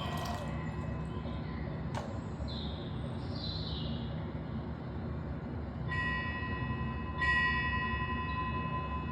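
A small bell chimes twice, about a second apart, each stroke ringing on over a steady low rumbling background noise. Earlier there are a couple of faint clicks and a brief high warbling sound.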